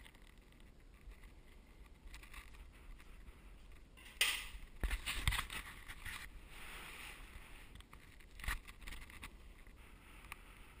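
Wet drywall sanding sponge being worked over a joint-compound patch: irregular scrubbing and watery swishing strokes, starting about four seconds in after a faint stretch.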